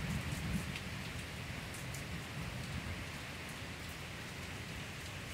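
Heavy downpour of rain falling steadily, with scattered individual drops ticking close by.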